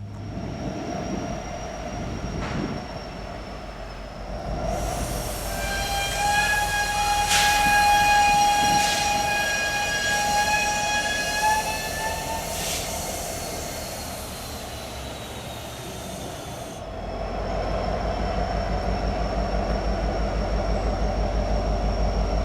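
Norfolk Southern SD70ACe diesel-electric locomotive sounding its air horn, a steady multi-note chord held for several seconds. Near the end the locomotive's low, pulsing engine rumble grows louder as it comes close.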